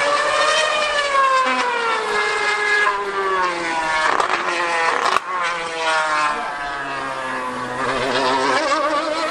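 2013 Formula 1 car's V8 engine screaming at very high revs, its pitch falling over the first few seconds, then a short break with a sharp crack about five seconds in, and climbing again near the end.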